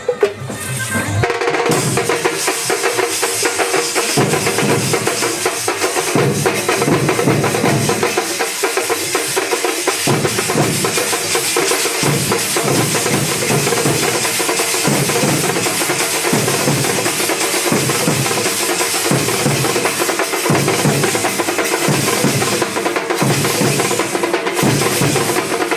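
Thambolam drum band playing a fast, driving rhythm, with heavy low drum beats recurring under dense rapid strokes. It builds to full loudness about a second in.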